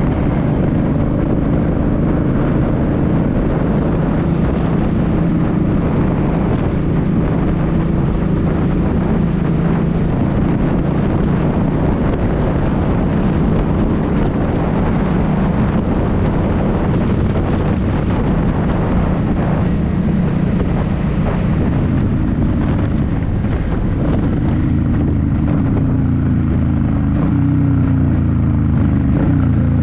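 2006 Suzuki C50's V-twin engine running steadily at cruising speed, with wind rushing over the microphone. Near the end the engine note falls as the bike slows.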